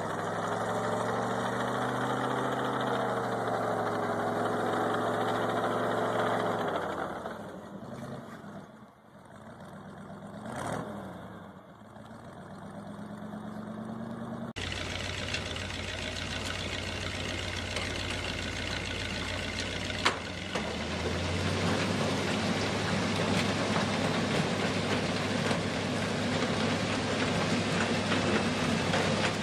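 Engines of heavy snow-clearing vehicles. The first engine runs with a wavering pitch, fades and slows about a third of the way in, then climbs again. An abrupt cut about halfway through switches to a different, steadier engine under a loud rushing noise.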